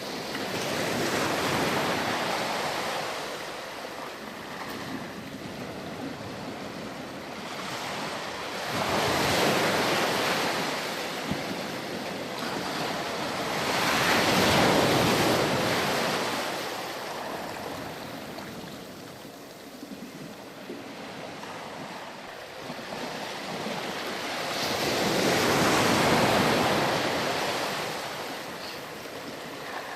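Ocean waves breaking and washing up a sandy beach, four surges swelling and ebbing a few seconds apart, with wind noise.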